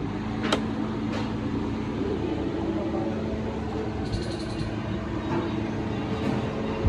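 Steady mechanical hum of a running machine, an even low tone with no change in speed, with a couple of light clicks in the first second or so.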